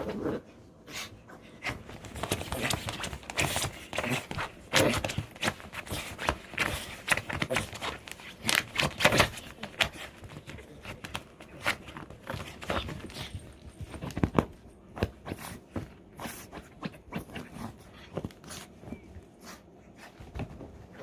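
A freshly bathed dog noisily drying its own fur, moving about and rubbing itself: a run of irregular rustles, scuffs and thumps.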